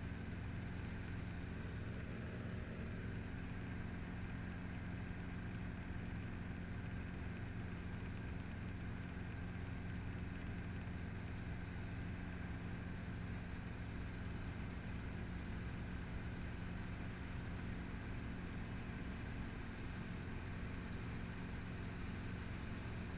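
Helicopter engine and rotor running steadily: a constant low drone with several held tones, unchanging throughout.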